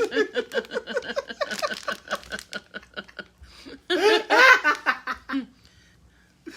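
People laughing: a long run of rhythmic laughing pulses, about four or five a second, that tails off about three and a half seconds in, then a short louder burst of laughter about four seconds in.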